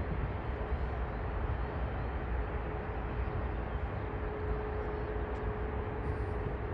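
Jet airliner engines coming in to land, a steady rumble with a held drone. Gusty wind buffets the microphone.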